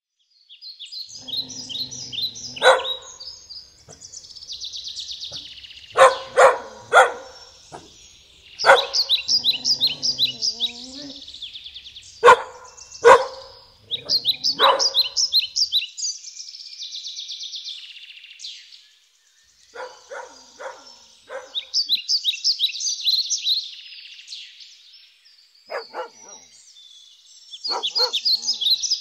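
A dog barking on and off, in single barks and quick runs of two to four, over birds singing rapid, repeated chirping trills.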